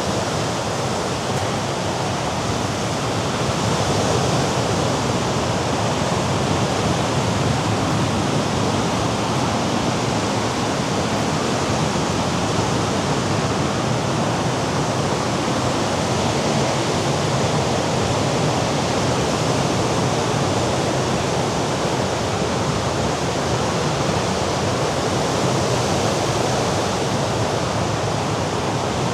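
Mediterranean sea surf and wind, a steady, unbroken rushing wash with no distinct strokes.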